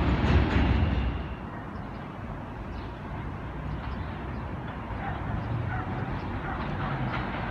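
A subway train's rumble and wheel clatter dying away over the first second or so, leaving low steady city background noise. A low rumble builds again slowly from a few seconds before the end.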